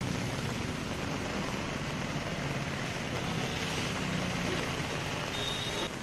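Heavy rain pouring onto a flooded road, a steady hiss of rainfall, with a low hum underneath and a short high tone near the end.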